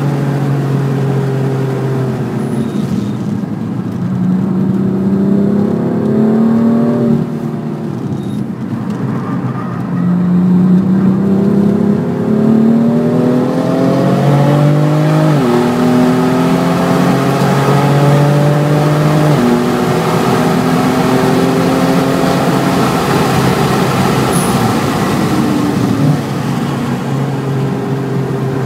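2018 BMW M4 Competition's twin-turbo inline-six engine, heard from inside the cabin, pulling hard under full throttle. Its note rises through each gear and drops sharply at upshifts about 7 and 15 seconds in. Near the end the engine note falls away as the car brakes.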